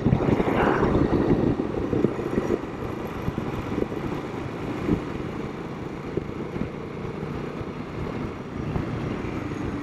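Royal Enfield Himalayan 452's single-cylinder engine running at road speed under wind and road noise, a little louder for the first couple of seconds and then steady.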